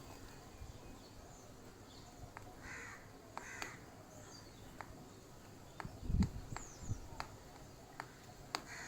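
Birds calling: a couple of harsh, caw-like calls about three seconds in and several short high chirps, among scattered sharp clicks and taps. A low thump sounds about six seconds in.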